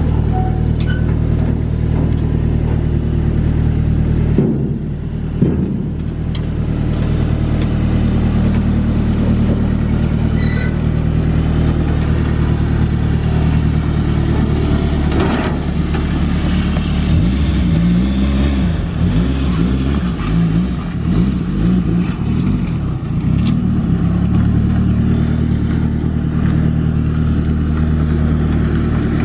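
Car engine running at low speed, a steady low hum with its pitch wavering up and down under light throttle for several seconds in the middle.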